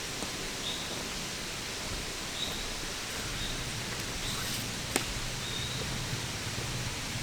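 Woodland ambience: a steady hiss with a small bird's short, high chirps repeating every second or so, and a single sharp click about five seconds in.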